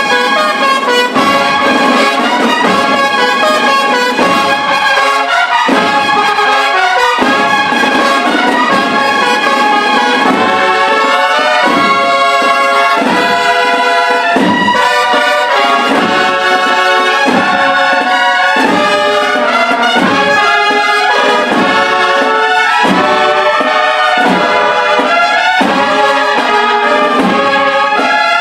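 Brass band playing a Holy Week processional march, trumpets and trombones holding full chords.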